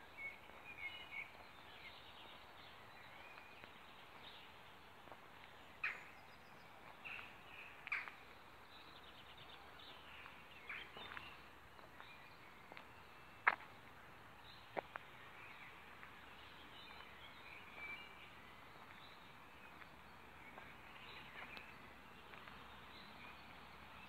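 Faint outdoor ambience with scattered songbird chirps and calls, and two sharp clicks about halfway through.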